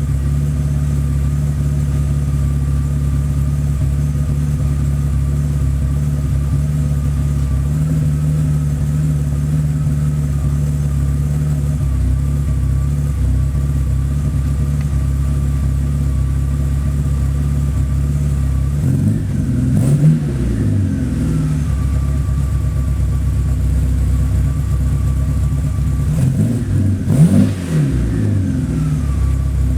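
BMW 850's V12 engine idling steadily, blipped twice: a quick rev about two thirds of the way in and another near the end, each dropping straight back to idle.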